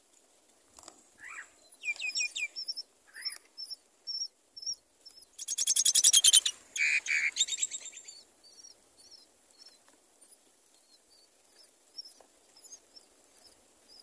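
Birds chirping: a short high chirp repeated over and over, with a few lower calls early on, and a loud, harsh, rapid rattling call lasting about two seconds midway.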